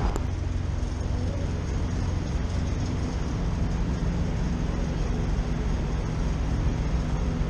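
A large engine idling steadily with a low, even drone.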